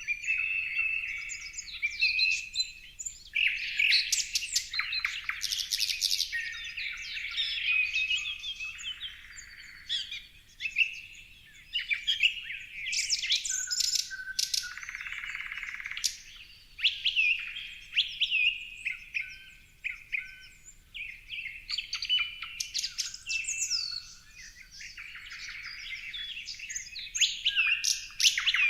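Several songbirds chirping and singing over one another: a dense run of quick high chirps, whistles and trills, with a couple of brief lulls.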